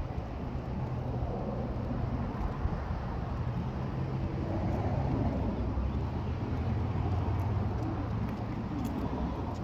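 A motor vehicle's engine running with a steady low hum, growing somewhat louder about halfway through.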